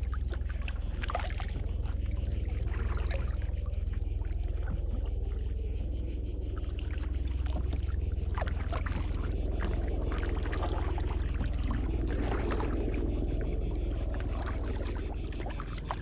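Kayak paddle strokes splashing and dripping in the water, irregularly, over a steady low rumble.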